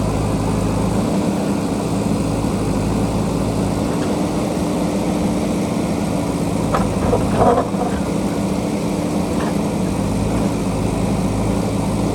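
JCB backhoe loader's diesel engine running steadily under work, with a brief clatter about seven seconds in.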